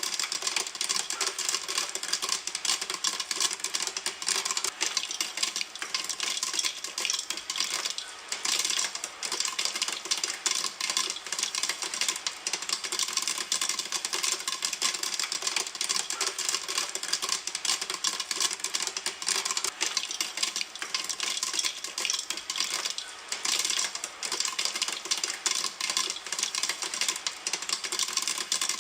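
Popcorn kernels popping in a pan: a dense, continuous rattle of many small overlapping pops, thinning briefly about a third of the way through and again about three quarters of the way through.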